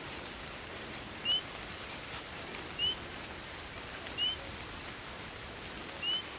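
Night forest ambience: a steady hiss of rain and wind in the trees, with a single short rising chirp, likely a bird's call, repeated four times about every second and a half.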